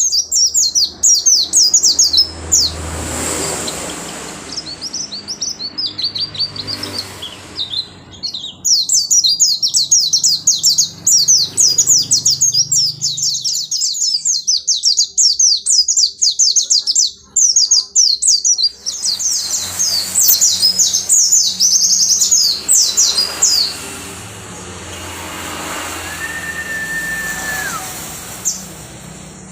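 Pleci (white-eye, Zosterops) singing a fast, high twittering song in long unbroken runs, with short pauses. The song stops about four-fifths of the way through.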